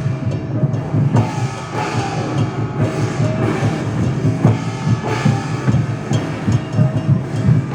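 Chinese dragon dance drum and percussion beating a fast, steady rhythm.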